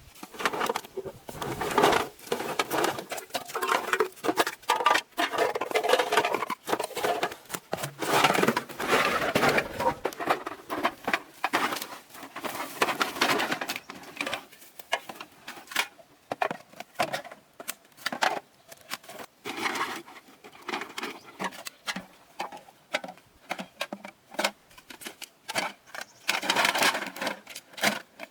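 Rapid, irregular clatter of clicks, taps and rustling, with no steady rhythm.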